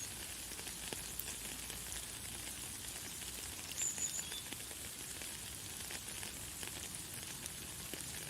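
Light, fine rain falling as a steady hiss with scattered small drop ticks. A brief high bird chirp cuts through about four seconds in.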